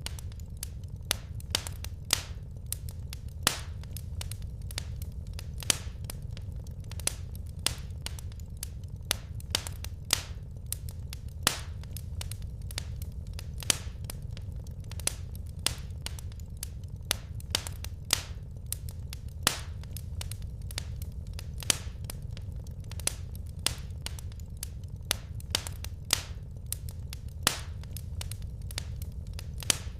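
Wood fire crackling in a fireplace: frequent, irregular sharp pops and snaps from the burning logs over a steady low rumble of the flames.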